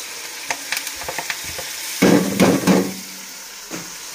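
Marinated chicken pieces sizzling in hot oil and soy sauce in a karahi, stirred with a spatula: light clicks against the pan, then a louder stretch of stirring about two seconds in that lasts about a second.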